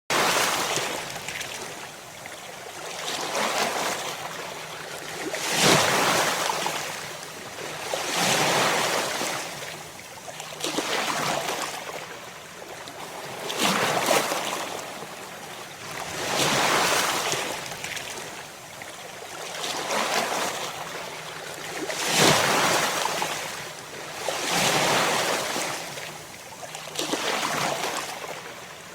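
Ocean waves breaking in steady succession, each one swelling to a hissing surge and then falling back, about every two and a half seconds.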